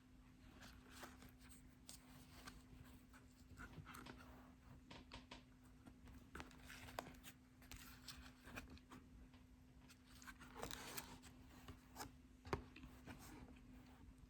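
Near silence: room tone with a faint steady hum, broken by scattered soft clicks and brief rustling scrapes, a little busier about ten seconds in.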